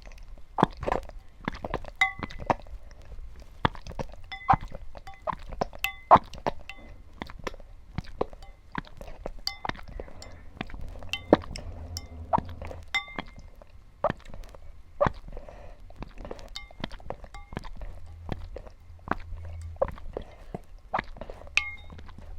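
Irregular sharp clinks and clicks, many of them ringing briefly, of small hard things knocking against a hard dish, a few a second at the busiest.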